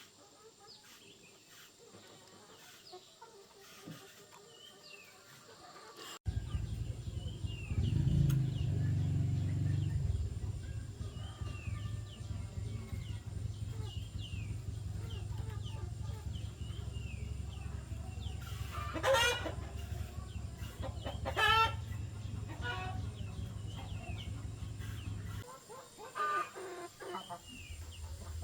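A rooster crows twice, about two-thirds of the way through, with a fainter crow near the end. Small birds chirp throughout. Under them a low, steady hum starts suddenly about six seconds in and stops shortly before the end.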